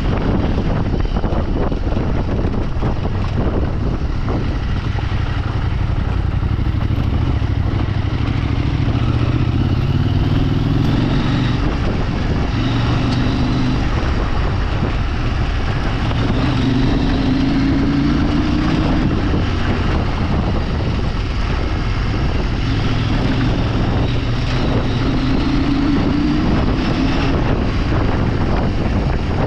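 A vehicle engine under way, its pitch climbing and dropping about three times as it is revved and shifted, mixed with steady wind noise on the microphone.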